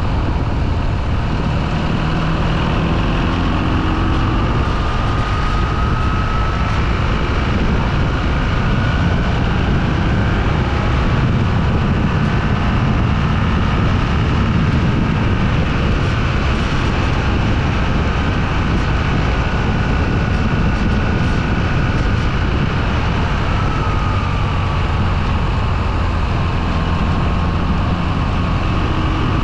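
Motorcycle being ridden: a steady, loud rush of wind and road noise, with the engine's note faintly rising and falling beneath it as the speed changes.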